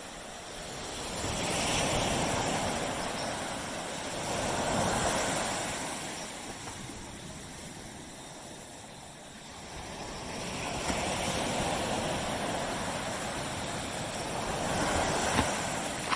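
Gentle surf on a tropical beach: small waves break and wash up the sand in slow surges that swell and fade every few seconds, about four times.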